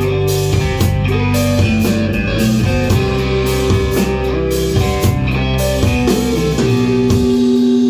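Rock band playing live: electric guitars, bass and drum kit with steady drum hits, then about seven seconds in the drums and bass stop while a held guitar chord rings on.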